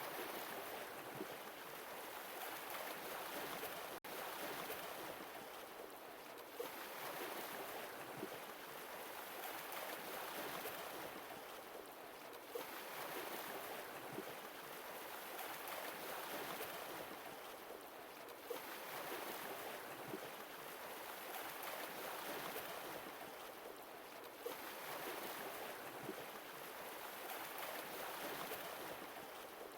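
Sea waves washing onto a shore, a steady hiss of surf that swells and falls back about every six seconds.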